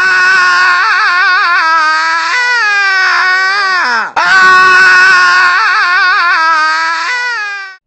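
A loud, long wailing cry with a wavering pitch, in two long stretches broken about four seconds in by a short dip that falls in pitch.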